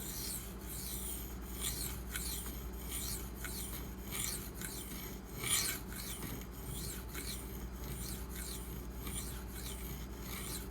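Maxamet steel knife blade stroked back and forth on a sharpening stone by hand, a dry scraping rasp at about three strokes a second.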